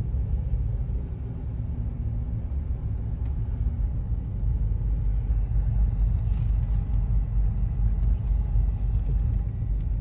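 Lifted Toyota truck driving slowly, heard from inside the cab as a steady low rumble of engine and road, with a faint tick about three seconds in.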